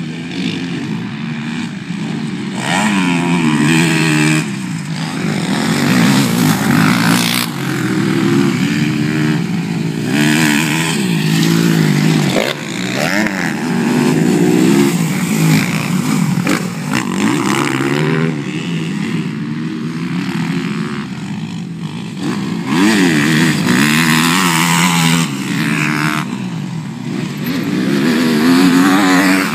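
Motocross bike engines revving hard and backing off, their pitch rising and falling again and again, the loudness swelling and easing every few seconds.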